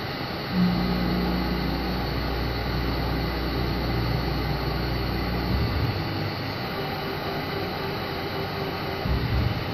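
CNC lathe running a centre-drilling cycle: a steady machine hum, with a deeper drone that starts about half a second in and stops about five and a half seconds in, and a brief low surge near the end.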